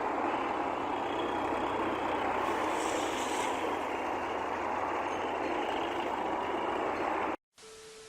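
A vehicle's steady driving noise, an even rush with no clear engine note, cutting off suddenly about seven seconds in, followed by a faint steady tone.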